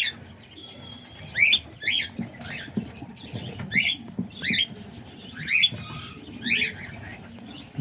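Cockatiel nestlings in the nest box calling, a short rising chirp repeated about once or twice a second.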